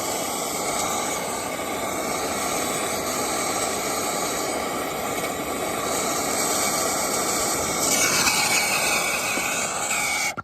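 Brazing torch flame hissing steadily while it heats a brazed fitting on the air handler's coil to take it off. The hiss gets brighter about eight seconds in and cuts off suddenly near the end.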